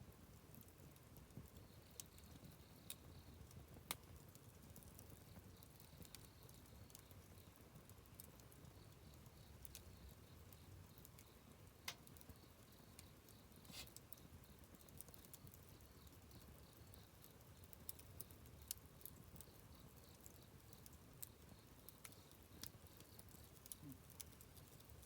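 Campfire of burning wood crackling faintly: irregular small snaps and pops, a few sharper ones, over a low steady rumble.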